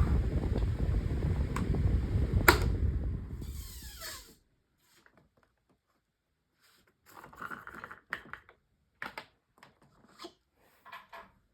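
12-inch Climate Keeper oscillating table fan running without its grill; a click about two and a half seconds in, then the motor winds down with a falling whine and stops within about two seconds, a short spin-down from a motor the owner calls gummed up. Near the end, scattered clicks and rubbing as the fan is handled.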